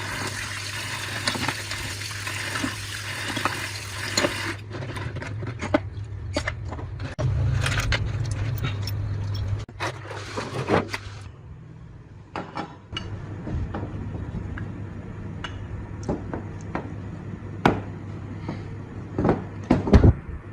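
Water running or spraying for the first few seconds, then scattered sharp clinks and knocks of hard parts being handled over a steady low hum.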